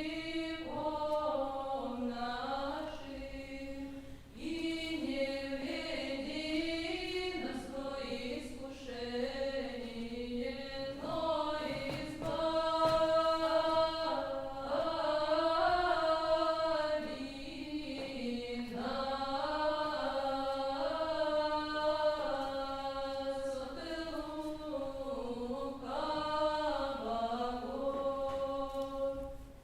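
Unaccompanied voices singing a slow, chant-like Old Russian melody, with a short break between phrases about four seconds in.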